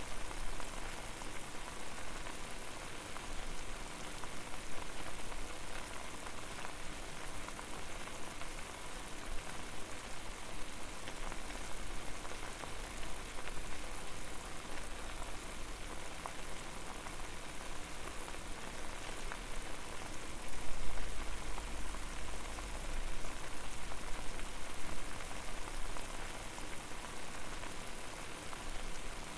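Water at a rolling boil in a pot over a fire: a steady dense bubbling hiss full of fine pops and crackles, with a low rumble that swells for a couple of seconds about two-thirds of the way through.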